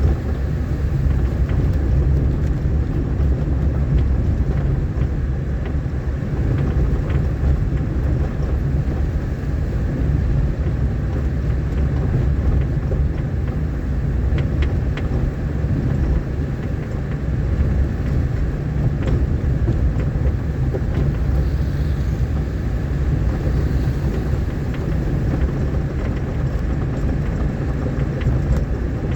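A vehicle driving along a rough, rain-damaged dirt road: a steady low rumble of engine and tyres, with scattered small ticks and knocks.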